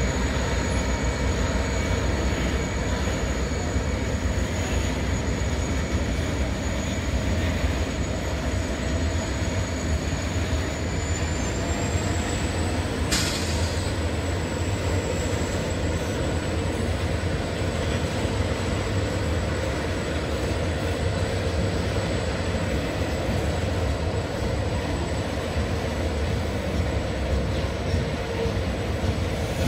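A long grain train of hopper wagons rolling past, drawn by diesel locomotives that are moving away: a steady low rumble of steel wheels on rail. A thin high whine runs through it and rises slightly about twelve seconds in, and there is a single sharp click about a second later.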